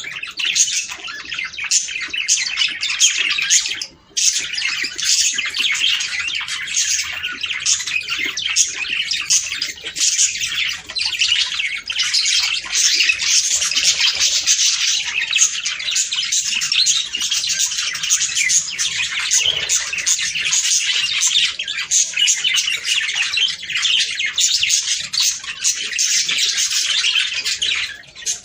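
A flock of budgerigars chattering: dense, overlapping chirps and warbles that run on without a break, apart from a short pause about four seconds in.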